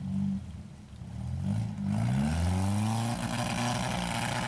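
UAZ off-road vehicle's engine revving up, its pitch rising for about a second and then holding, under load. From about two seconds in a loud rushing noise joins it and keeps on.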